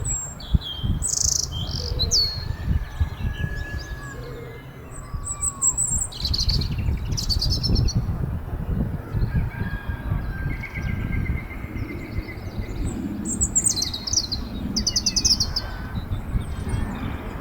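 Small birds chirping and singing, with repeated short high calls and trills, over a low rumbling noise.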